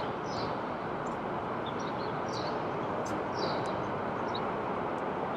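Steady background noise of outdoor ambience, with short, faint high chirps of small birds scattered through it.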